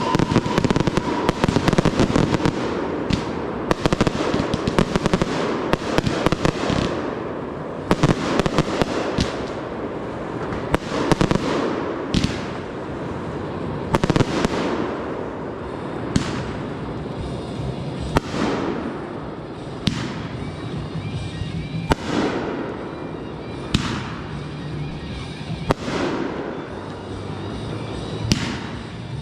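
Consumer fireworks going off: dense crackling mixed with sharp bangs of aerial bursts. In the second half, single loud bursts come about every two seconds.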